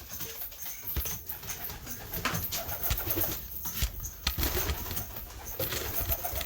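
Domestic pigeons cooing, with scattered knocks and rustling from the birds moving about.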